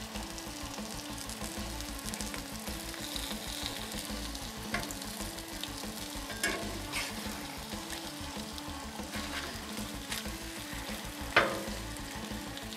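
Bacon, ham, turkey and sausage sizzling on a hot steel flat-top griddle and in a carbon steel fry pan. A metal spatula clicks and scrapes on the griddle a few times, with a sharper knock near the end.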